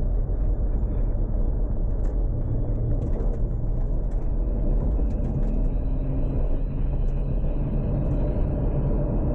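Tuned Toyota Supra Mk4's 2JZ straight-six running at low, fairly steady revs while cruising, with road noise and a few faint ticks about two to three seconds in.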